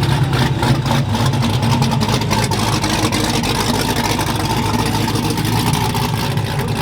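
Car engine running steadily at a low idle, with a constant low rumble under a noisy background.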